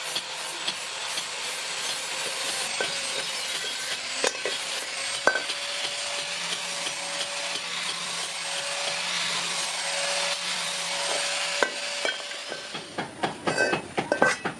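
A steady rushing hiss with a faint hum and a few sharp clicks. Near the end it stops and quick hammer blows on metal begin.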